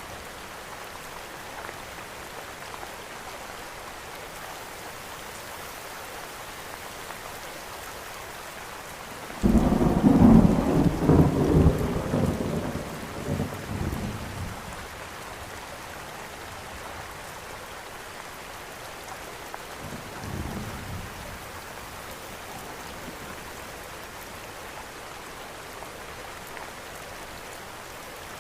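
Steady rain falling, with a sudden clap of thunder about a third of the way in that rolls and rumbles for several seconds before fading, then a fainter distant rumble of thunder later on.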